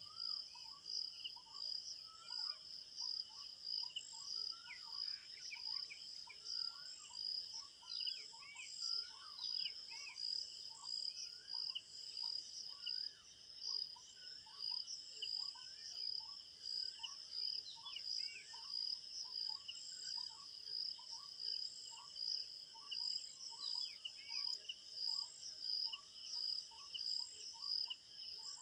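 Crickets chirping in a steady, continuous high pulsing chorus, with short bird chirps repeated about twice a second beneath it.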